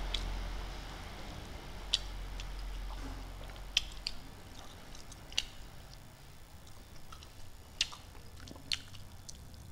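A man chewing a mouthful of rice and fried fish close to a clip-on microphone: scattered sharp, wet mouth clicks and smacks, about six of them, over quiet background. A low rumble fades out in the first second.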